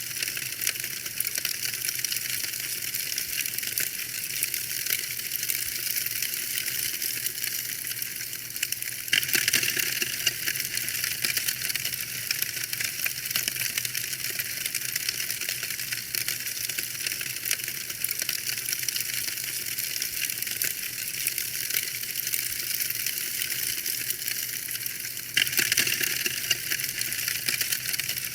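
Wood fire in a fireplace crackling: a dense stream of small snaps and pops over a steady hiss, with little low end. It abruptly turns a little louder about nine seconds in and again near the end.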